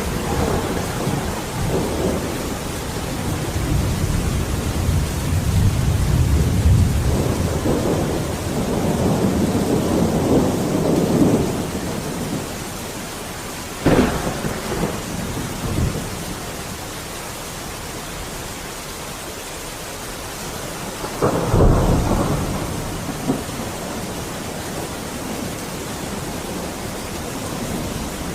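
Heavy rain falling steadily, with rolling thunder: long low rumbles in the first half, then two sharp thunderclaps, about a third of the way in and again about three quarters of the way in, each fading into a rumble.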